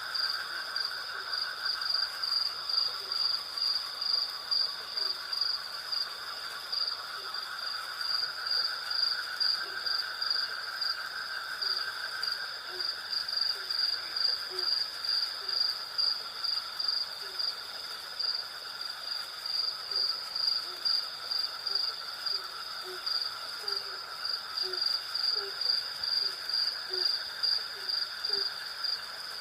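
Night chorus of crickets and other insects: a high, evenly pulsing trill over steadier buzzing drones. From about the middle on, short low calls repeat roughly once a second.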